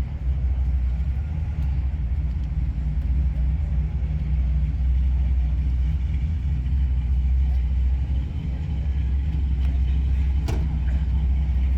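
Car engine idling nearby: a steady low rumble, with a single sharp click about ten and a half seconds in.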